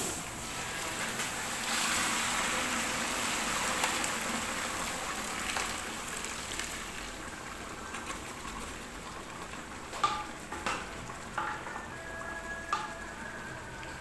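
Chicken with onions and spices sizzling in oil in a large cooking pot, the frying hiss strongest in the first half and dying down after. A few sharp knocks near the end.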